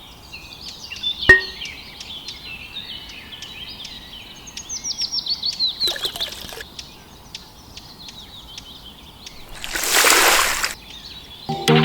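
Birds chirping and singing in quick, high, falling runs of notes, with a sharp click about a second in and a brief burst of rushing noise near the end.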